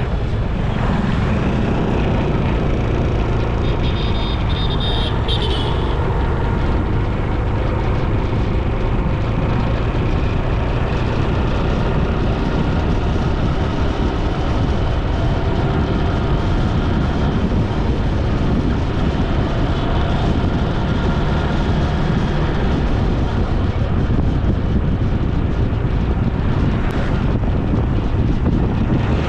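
Steady road noise from a vehicle on the move: wind rush on the camera microphone over a running engine and tyres. A brief higher-pitched sound comes in about three seconds in and stops about three seconds later.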